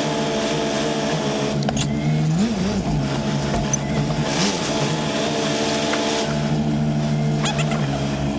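Semi-truck diesel engine idling steadily from inside the cab, with two short revs, about two and a half and four and a half seconds in, as the truck is backed into a dock. A couple of faint clicks sound, near two seconds in and near the end.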